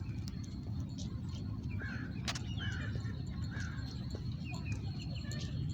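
Birds calling outdoors: about half a dozen short, arching calls, starting about two seconds in, over a steady low rumble.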